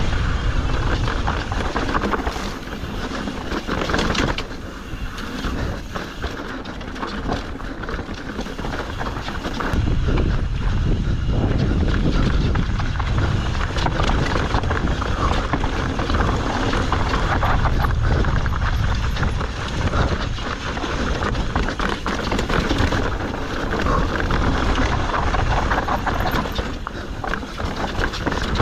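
Mountain bike riding fast down a rough trail: a continuous rush of wind on the microphone with tyres rumbling and the bike rattling and knocking over rocks and bumps.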